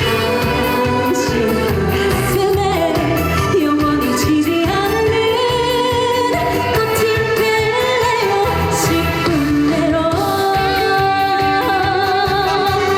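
A woman singing a trot song with vibrato over instrumental accompaniment with a steady beat.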